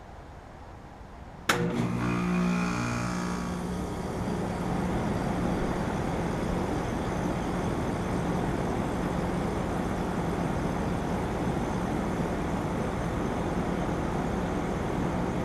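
2013 Trane XB13 2-ton central air conditioner outdoor unit starting up: it kicks on suddenly with a click about a second and a half in, the compressor hums into life, and the unit settles into a steady run with its fan.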